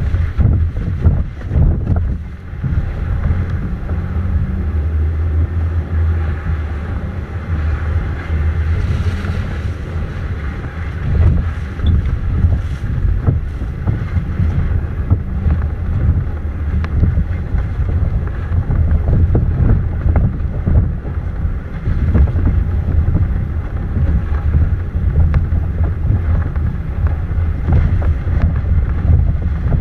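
Low rumbling wind noise buffeting the microphone, steady with small gusty swells.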